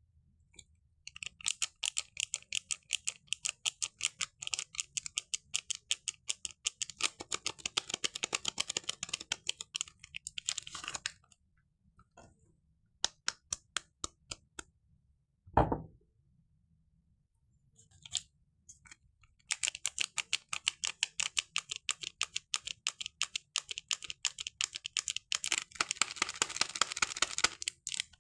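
A soap's packaging being unwrapped and peeled: rapid crinkling and crackling of the wrapper. About halfway through it goes sparse, with a single dull thump, then the crinkling picks up again.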